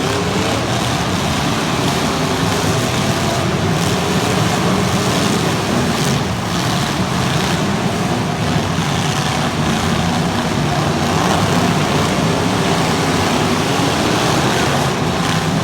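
Demolition derby car engines running loudly together.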